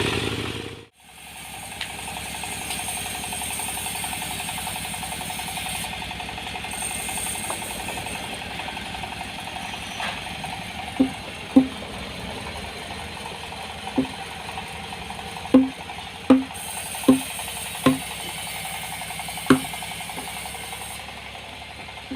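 Machinery running with a steady hum, and a series of about nine sharp knocks, irregularly spaced, in the second half.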